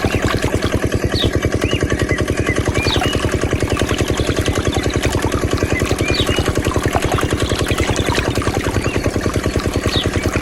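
Small diesel engine running a water pump at a steady speed, with a rapid, even beat. Short high chirps sound now and then over it.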